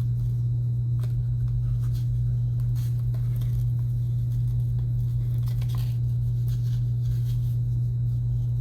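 Steady low hum, with faint scattered clicks and scratches of plastic false-lash packaging being handled and pried open.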